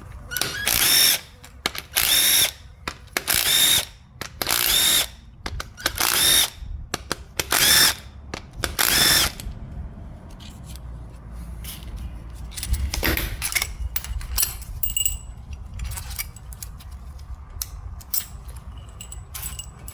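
Handheld power driver spinning out the bolts that hold the solenoids on an automatic transmission's valve body, in about eight short whirring runs over the first nine seconds. After that come light metallic clinks and taps.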